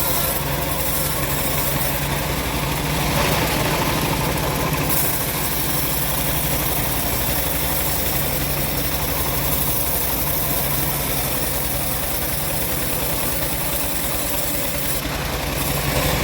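Engine of a homemade bandsaw sawmill running steadily.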